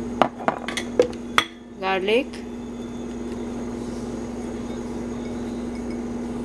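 A few quick clinks of a spoon against a bowl in the first second and a half, as chopped onion, chili and garlic are tipped into the mash, over a steady low hum that runs throughout.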